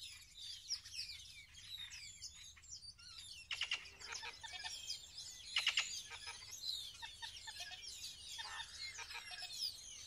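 Several birds calling: a mix of high chirps and whistles, with short rattling bursts of rapid clicks several times.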